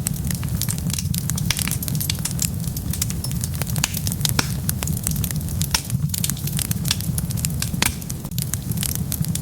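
Wood fire burning: a steady low rumble of flames with frequent sharp crackles and pops from the burning logs, several a second.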